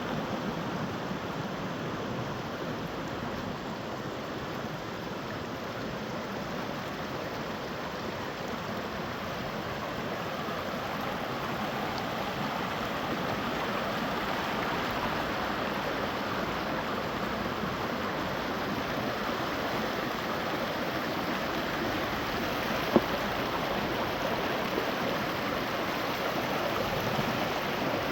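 Water of a stream rushing steadily, with one sharp click about three-quarters of the way through.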